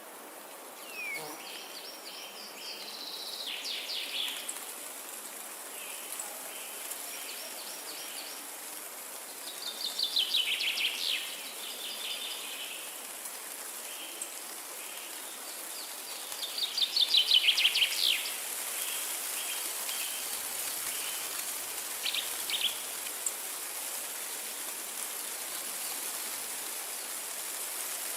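Wind rushing steadily through forest trees, with songbirds singing over it. One bird sings a fast trill of rapid notes sliding downward three times, the last the loudest, while shorter chirps repeat between the trills.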